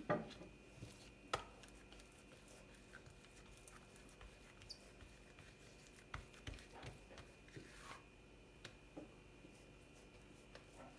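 Quiet kitchen handling sounds: scattered light taps and clicks, with a sharper knock at the start and another about a second later.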